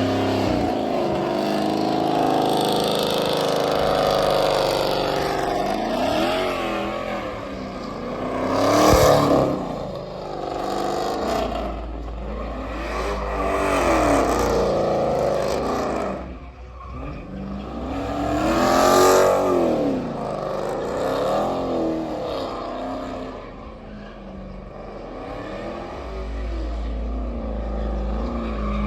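Vehicle engine revving over and over, its pitch climbing and falling in repeated sweeps, loudest about a third and two-thirds of the way in.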